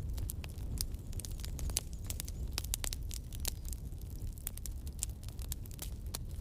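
Wood campfire crackling, with many quick irregular pops and snaps over a low steady rumble of the burning fire.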